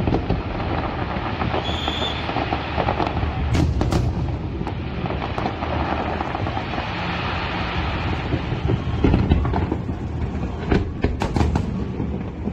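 Fireworks display: a continuous rumble and crackle of shells bursting, with a few sharp bangs about four seconds in and a cluster more between nine and eleven seconds.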